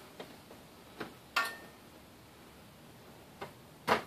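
Five or so sharp clicks and snaps at irregular spacing, the loudest about a second and a half in and near the end: plastic push-pin retainer clips on a car's radiator-support shield being pried up with side cutters and popping free.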